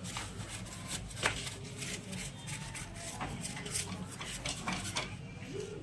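Scattered light metallic clicks and clinks of motorcycle engine parts being handled, over a steady low hum.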